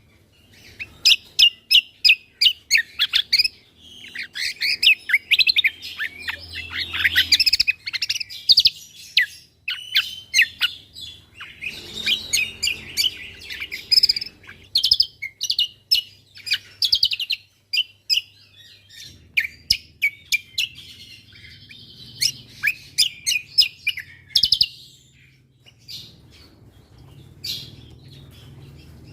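Cucak kombo (kecial kombo) singing its rapid 'tembakan' phrases: fast runs of short, sharp chirps and quick sweeping notes, broken by a few brief pauses, over a faint low hum.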